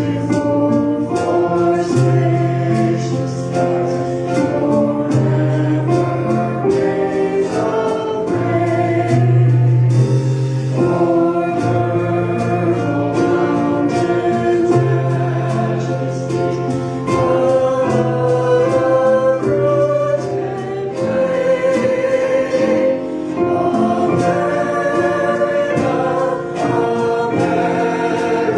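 Choir and congregation singing a gospel song with instrumental accompaniment and a steady held bass line.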